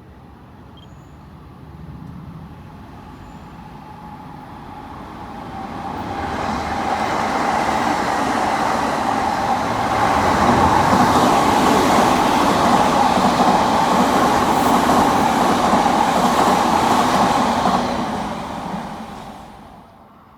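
Odakyu Line electric train approaching and running past, its wheels and running gear growing louder to a steady peak for several seconds, then dying away quickly near the end.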